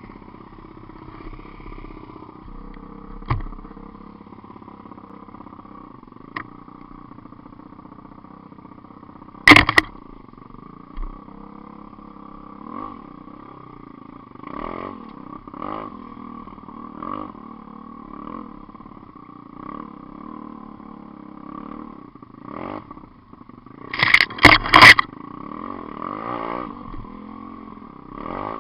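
GPX 125cc four-stroke single-cylinder pit bike engine running at a steady idle, with short throttle blips coming every second or so in the second half. A few loud, sharp bangs stand out, one about a third of the way in and a cluster near the end.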